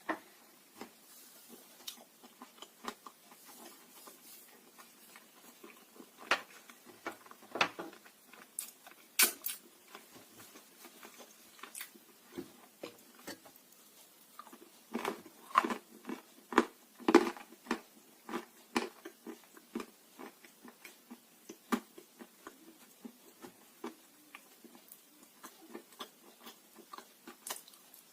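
Close-up crunching of dry blue Uzbek clay being bitten and chewed: irregular crisp crackles and clicks, louder in a few dense clusters.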